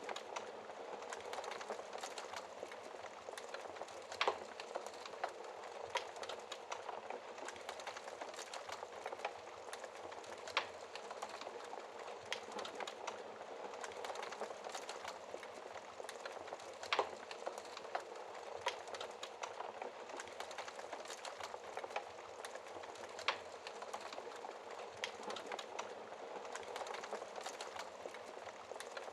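Wood logs burning in a fireplace: a steady crackle and hiss full of small pops, with a few sharper, louder snaps spread through it.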